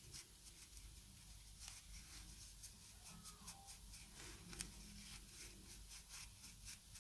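Near silence: room tone with faint scattered ticks and rustles.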